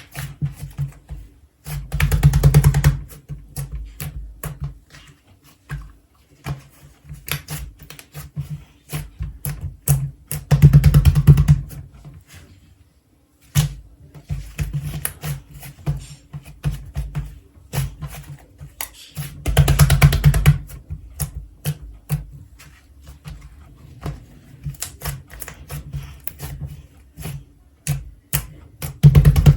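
Slime being played with by hand: a steady run of sticky clicks and pops, with a louder, denser squelching burst about every nine seconds, four times in all.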